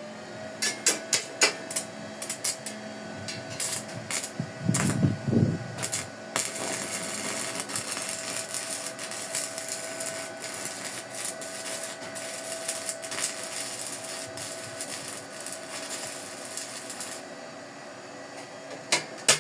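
Welding a steel pipe onto a plate: a steady crackling hiss from the weld, with sharp metallic taps of the pipe being knocked down to lap tight on the plate, most of them in the first few seconds and again near the end.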